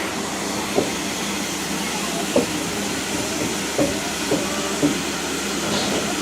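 Steam train running: a steady rushing noise, broken by a few short, sharp knocks at uneven intervals.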